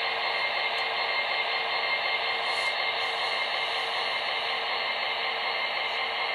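MTH HO-scale SD70ACe model locomotive's factory sound file playing a steady diesel locomotive running sound through the model's small onboard speaker.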